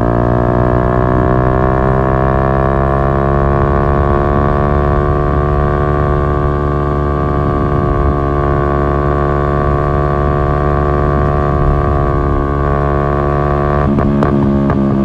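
Yamaha MT-125's single-cylinder four-stroke engine running through an Akrapovic exhaust. Its note drops a little in the first couple of seconds, then holds at a steady pitch, with a few clicks and a change in tone near the end.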